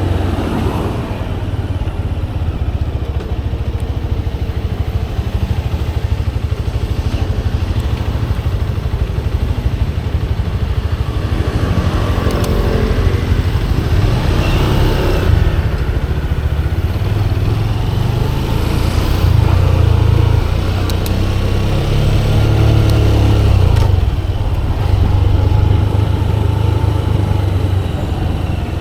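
Motorcycle engine running on the move, a continuous deep rumble with its pitch rising and falling several times as the throttle opens and closes.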